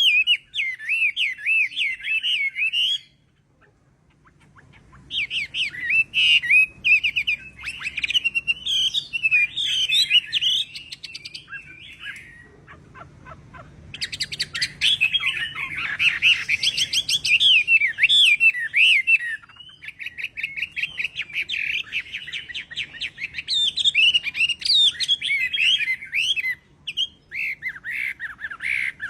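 Chinese hwamei (họa mi) singing a long, varied song of rapid warbling, gliding phrases, breaking off briefly twice.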